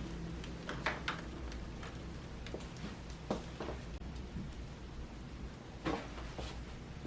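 Scattered light clicks and taps of kitchen work, several sharper knocks among them, over a low steady hum.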